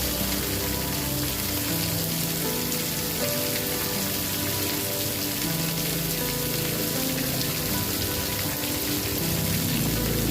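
Steady rain hiss with soft sustained low tones underneath, like an ambient music pad, changing pitch every second or two. A low rumble swells in near the end.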